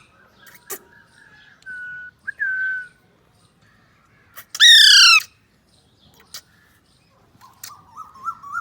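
Pet green parakeet calling: soft short whistles early on, then one loud, harsh, falling squawk about halfway through, with quiet warbling chatter near the end. A few sharp clicks come in between.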